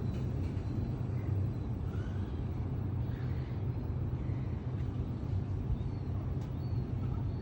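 Steady low engine rumble with a constant hum, and a few faint short chirps above it.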